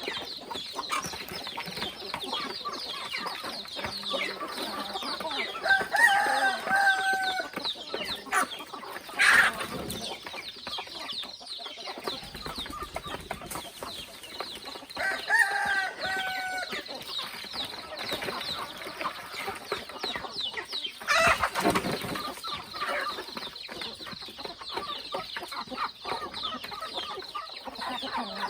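A flock of free-range chickens clucking continuously, with two longer drawn-out calls, one about six seconds in and one about fifteen seconds in. Two brief loud noisy bursts come near the middle and about two-thirds through.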